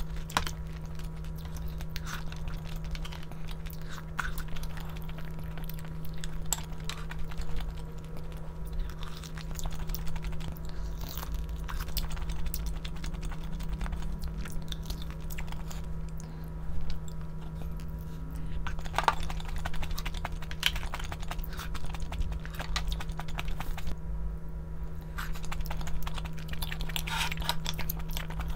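Close-up eating sounds: a person chewing and biting on braised pork back ribs with kimchi, with scattered clicks and a steady low hum underneath.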